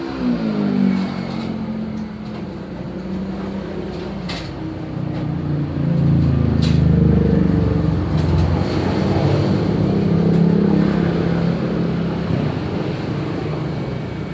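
An engine running, its pitch dropping right at the start, then rising in speed and load and easing off again, with a couple of sharp knocks.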